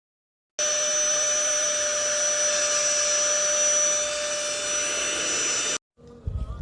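Small 4-in-1 cordless vacuum cleaner / air duster blower motor running at full speed: a steady high whine over rushing air. It cuts in abruptly about half a second in and cuts off just as abruptly near the end.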